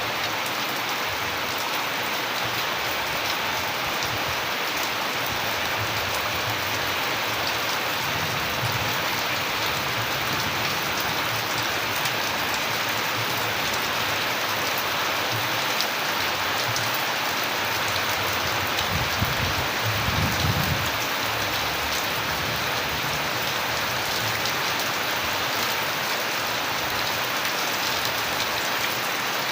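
Steady rain falling, an even hiss with scattered sharper drop impacts, and a brief low rumble about two-thirds of the way through.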